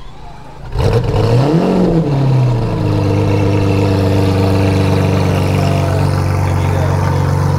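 Lamborghini 6.5-litre V12 starting up: it catches suddenly about a second in, the revs flare up and drop back over the next second or so, then it settles to a steady idle.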